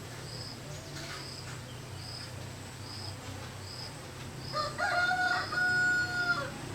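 A rooster crowing once, a long held call starting about two-thirds of the way in, over a steady low hum and a faint high chirp repeating about every three-quarters of a second.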